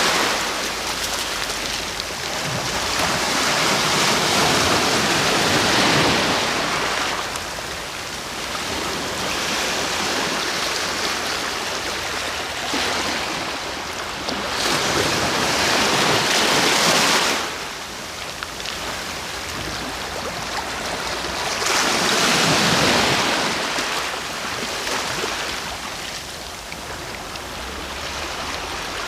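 Sea waves breaking and washing up the shore, the surf swelling and falling back every several seconds.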